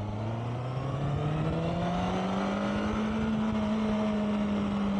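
Honda CBR650R's inline-four engine accelerating: its note rises steadily for about three seconds, then holds steady.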